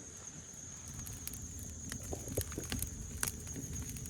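Quiet outdoor night ambience: a low rumble under a steady thin high-pitched tone, with scattered faint clicks and ticks.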